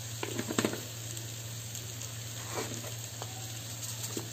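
Cubed boiled spleen and sliced hot chili peppers sizzling as they fry in a stainless steel pan, a steady hiss with a few brief crackles in the first second.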